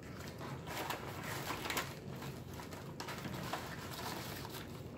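Close-up eating sounds: a mouthful of pizza being chewed, with soft irregular crackles and smacks, and a slice being pulled from the cardboard pizza box near the end.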